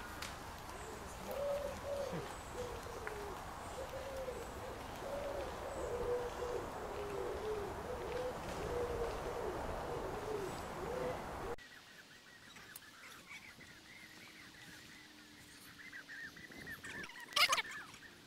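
A bird's low hooting calls, repeated over and over, over a steady low rumble. They cut off suddenly about two-thirds of the way through. After that it is much quieter, with one short sharp noise near the end.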